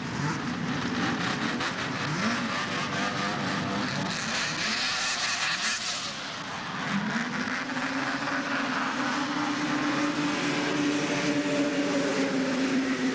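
Racing snowmobile engines running hard at high revs; about seven seconds in, one engine's pitch climbs and then holds steady.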